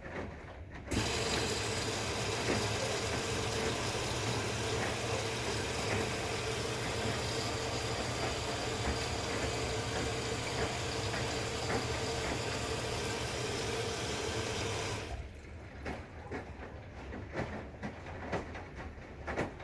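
Maytag washing machine filling with water: a steady rush of water through the inlet valve with a hum, starting suddenly about a second in and cutting off abruptly near fifteen seconds. Quieter irregular clicks and knocks follow.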